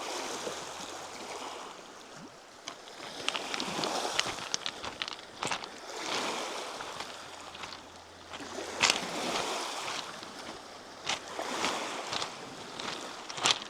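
Small lake waves washing onto the shore, swelling and falling back every two to three seconds, with scattered sharp clicks and taps over them.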